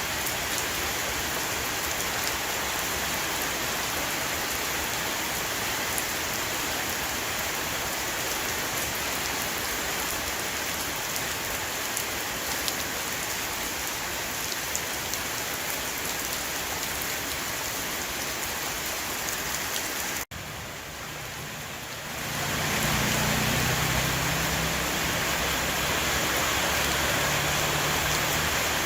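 Heavy rain shower falling on a roof: a steady hiss with scattered drop taps. About two-thirds of the way through it cuts off abruptly, then comes back louder with a low hum underneath.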